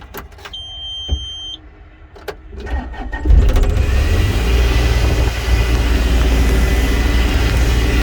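2014 Bobcat E35 mini excavator being started: a few clicks and a single high beep of about a second, then the diesel engine cranks briefly, catches a little after three seconds in and settles into a steady idle.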